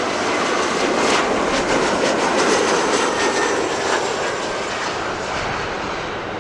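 Jet airliner engines, a steady loud rushing that swells to its peak a couple of seconds in and eases off slightly near the end.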